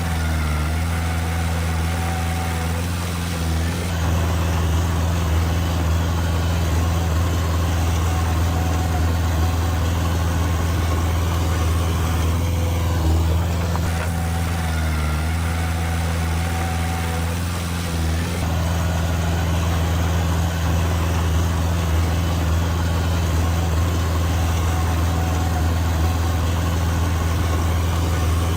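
Heavy diesel engine of earthmoving machinery running steadily at an even speed, a low, constant drone.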